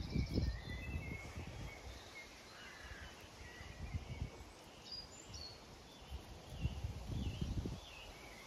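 Small birds chirping and singing in the background, short wavy calls over and over. Low rumbles, strongest near the start and again near the end, come and go underneath.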